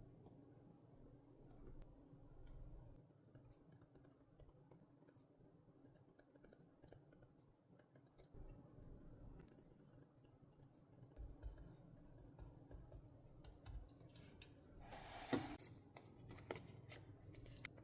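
Faint desk sounds of paper crafting: scattered small clicks and taps over a low hum, with one louder rasp of paper about fifteen seconds in.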